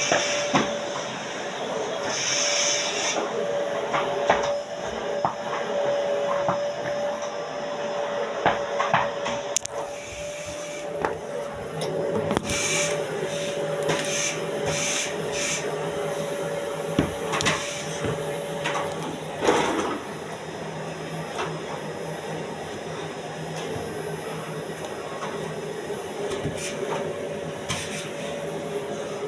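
A vacuum cleaner running steadily in a neighbouring room, with a steady whine and scattered clicks and knocks over it. The whine fades about two-thirds of the way in.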